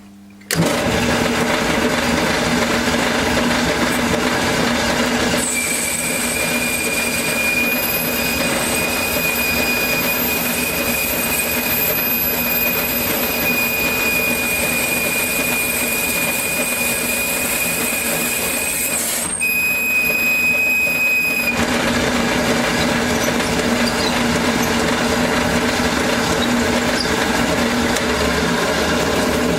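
A metalworking machine starts about half a second in and runs steadily while boring out a metal part for a tractor starter. From about five seconds in, a high steady squeal rides on it until about twenty-one seconds, breaking off briefly near nineteen seconds.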